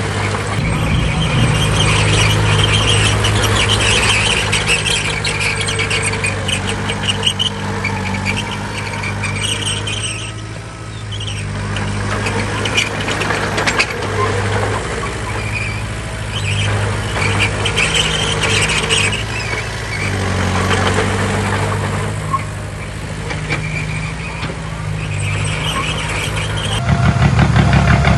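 Heavy diesel earthmoving machinery at work: a diesel engine running steadily under load, with a high metallic squeal that comes and goes every few seconds. The engine gets louder and deeper near the end.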